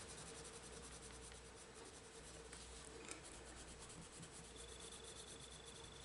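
Faint scratching of a coloured pencil being worked over paper, layering colour, over a faint steady hum.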